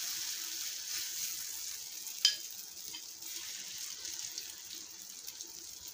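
Grated-potato and egg batter sizzling in hot oil in a shallow pan, a steady hiss that slowly fades, while a spoon spreads it and scrapes the pan, with one sharp clink about two seconds in.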